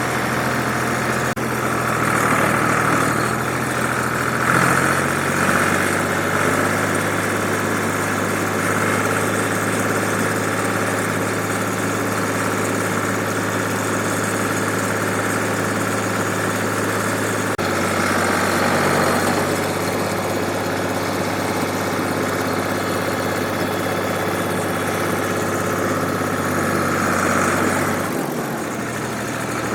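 1967 Ford 2000 tractor's three-cylinder engine running steadily while the tractor is driven around to warm its oil, its engine speed shifting a few times.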